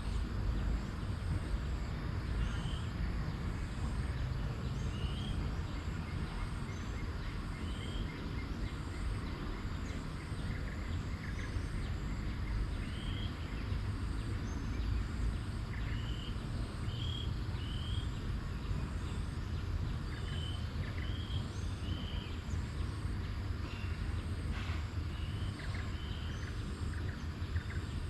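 Outdoor nature ambience: birds giving short chirps every second or two over a steady low rumble, with a faint high pulsing repeating about once a second.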